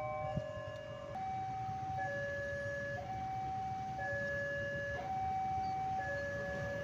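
Railway level-crossing warning alarm sounding a steady two-tone signal, switching between a higher and a lower tone about once a second, over a low steady rumble.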